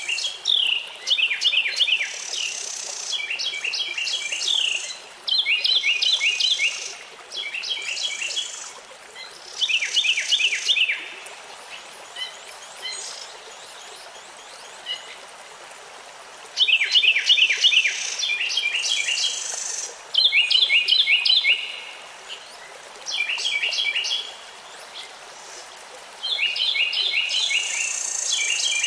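A songbird singing a string of short phrases, each a quick run of sharply falling notes, repeated every second or two, with a pause of several seconds in the middle. A steady hiss runs underneath.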